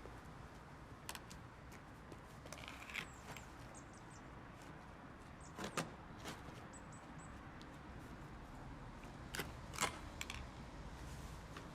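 A few light clicks and knocks at irregular intervals, the loudest about six and ten seconds in, over a faint low rumble, with a few brief faint high squeaks.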